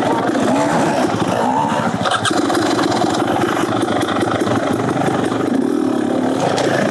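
Beta Xtrainer 300 single-cylinder two-stroke engine with an FMF Gnarly exhaust, running under load on a trail. Its pitch rises and falls as the throttle is opened and closed.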